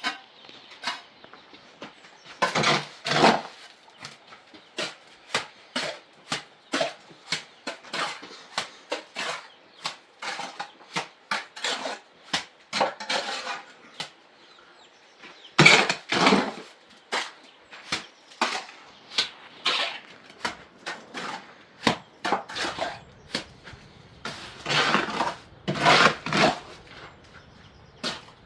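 Irregular series of sharp knocks, hard objects struck by hand about one or two times a second, with three longer, louder scraping or clattering sounds about three seconds in, about sixteen seconds in and near the end.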